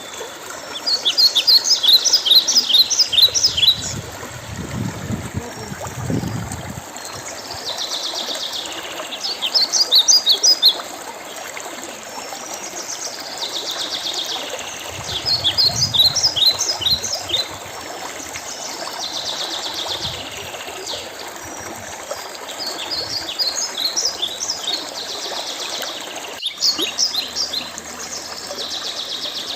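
A songbird repeating a short phrase of rapid high notes every five or six seconds, with a softer trill between phrases, over the steady rush of a stream.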